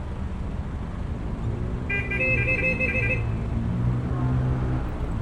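Scooter ride in traffic with steady engine and road noise; about two seconds in, a vehicle horn sounds as a quick run of short, high beeps lasting about a second. A deeper engine drone swells through the middle.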